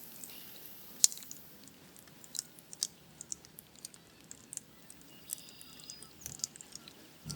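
Raindrops dripping and tapping, irregular sharp little ticks several times a second over a faint steady hiss, one louder tick about a second in.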